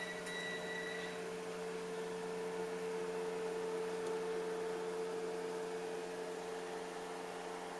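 Samsung ML-1750 laser printer running with a steady hum, with a faint high whine in the first second.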